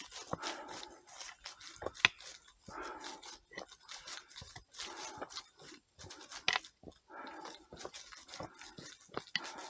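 Footsteps of a hiker walking uphill on a trail, with irregular sharp knocks and scuffs and hard breathing in short repeated puffs.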